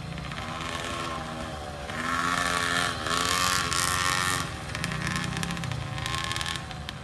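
Dirt bike engine running and revving, its pitch rising and falling; it gets louder about two seconds in and eases off a couple of seconds later.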